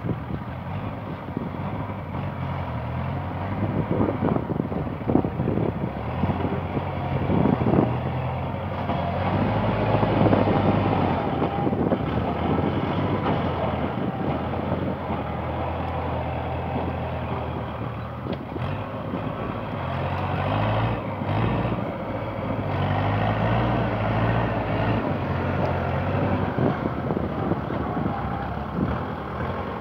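Kubota tractor's diesel engine running under load while plowing, its pitch and loudness wavering, with a few sharp knocks between about four and eight seconds in.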